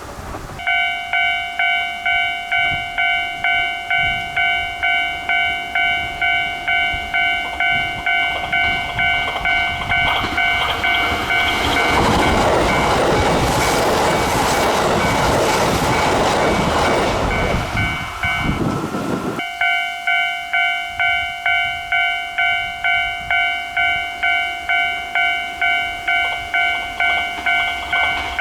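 Japanese railway level-crossing alarm ringing about twice a second, while a Kintetsu train passes about twelve seconds in, its running noise covering the bell for several seconds; the bell breaks off briefly near the end of the pass and starts again.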